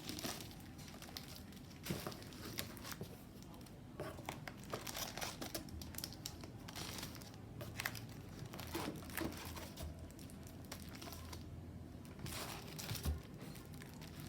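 Plastic packaging and paper packs being handled, crinkling and rustling in irregular bursts.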